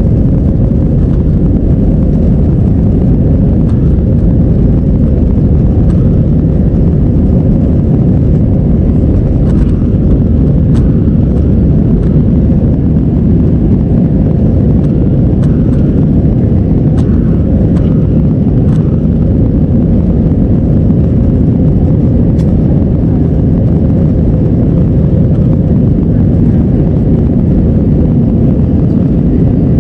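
Jet airliner cabin noise: a loud, steady, low rumble of the engines and airflow, with a faint steady hum and a few faint clicks.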